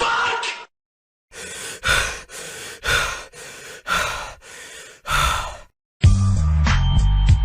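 A person breathing heavily in a row of about five loud, airy breaths or sighs, roughly one a second. Music with a heavy bass line starts near the end.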